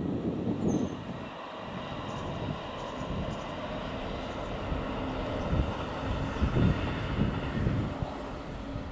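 Kintetsu electric train passing at a distance, a steady rumble with a faint high whine through its middle. Gusts of wind buffet the microphone near the start and again later.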